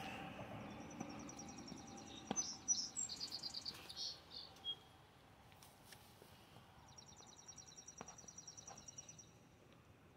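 A small songbird singing two high, rapid trills: the first runs for about four seconds, and a steadier one of about two and a half seconds follows a couple of seconds later, over faint outdoor background noise.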